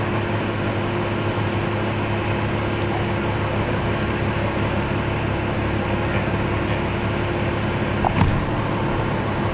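Steady drone of an idling vehicle engine, with a short knock about eight seconds in.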